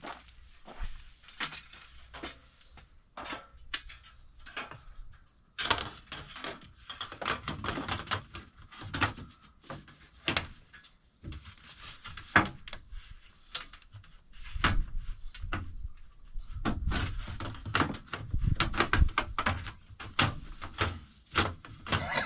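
Things being handled in a small room: irregular clicks, knocks and clatter, busier from about six seconds in and again in the second half.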